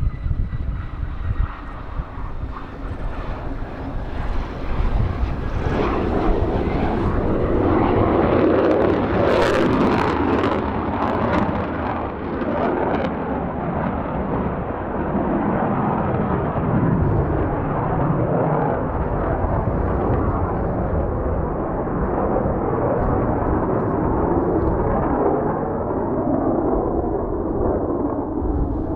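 Jet noise from a Mitsubishi F-2 fighter's single F110 turbofan as the jet passes: the roar swells about five seconds in and stays loud, with a few sharp crackles in its midst. A low rumble of strong wind on the microphone runs underneath.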